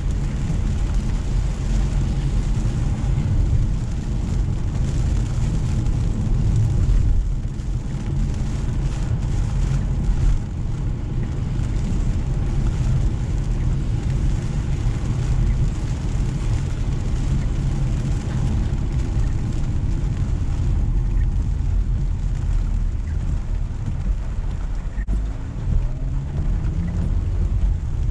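Car driving through steady rain: a constant low rumble of engine and tyres on the wet road under an even hiss of rain and spray. A low engine note rises over the last few seconds, with a single short knock a little before it.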